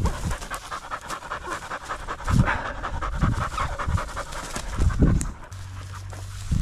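Hunting dog panting rapidly, short quick breaths, just after retrieving a bird, with a few low thumps in between.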